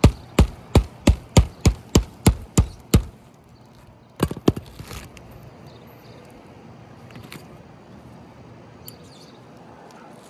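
Hammer driving roofing nails through asphalt shingles: a quick run of about ten sharp, evenly spaced blows, then two more a second later.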